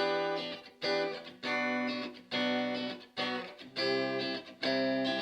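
Donner DST-100 Strat-style electric guitar with S-S-H pickups played through a small 3-watt practice amp on its clean setting: strummed chords, a new chord about every second, each held briefly and then cut short.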